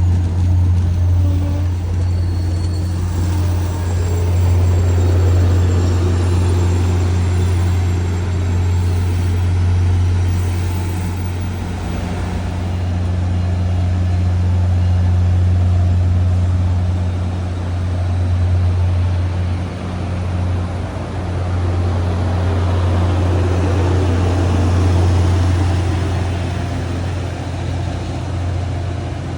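MBTA commuter rail train running, a steady deep hum under a rumbling rail noise that swells and eases several times.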